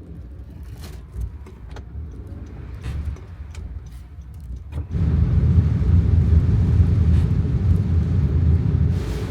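Inside a Honda N-VAN kei van in heavy rain: a low rumble with scattered sharp taps, then about five seconds in a much louder steady low rumble sets in and holds.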